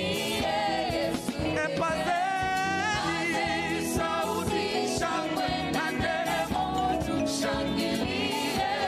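Gospel song: voices singing together with vibrato over instrumental backing, with regular cymbal-like hits.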